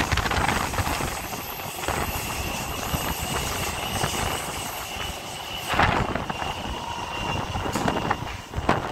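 Taipei Metro C321 electric multiple unit running on the line: a rumbling train noise with a thin, steady high whine over it. There are sharp louder knocks about six seconds in and again near the end.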